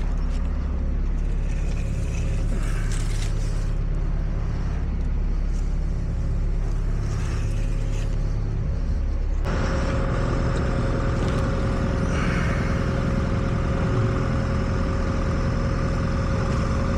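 An engine running steadily with a low drone; about halfway through a higher steady whine joins it.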